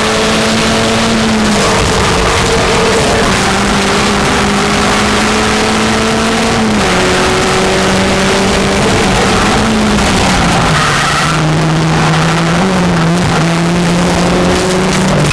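Racing car engine running hard at a steady high pitch, which drops in several steps and rises again near the end.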